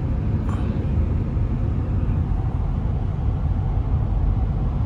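Steady low rumble of a car at highway speed, tyre and engine noise heard from inside the cabin.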